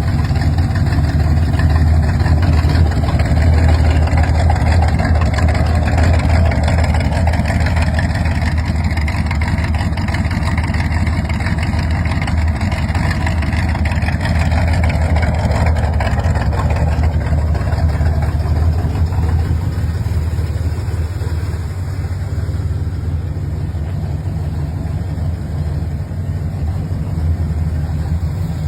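Small-block Chevy V8 in a Studebaker Avanti running steadily at idle with a deep, even rumble.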